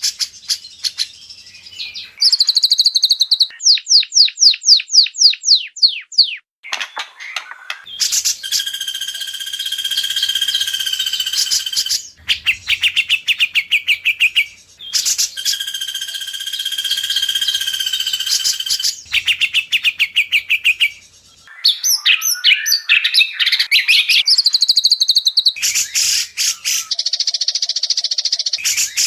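White-rumped shama song, loud and varied: a run of a dozen quick falling whistled notes, then two long fast rattling trills, then busy chattering phrases.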